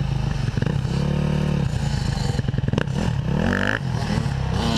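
Dirt bike engine revving, its pitch rising and falling, with a couple of sharp knocks near the middle.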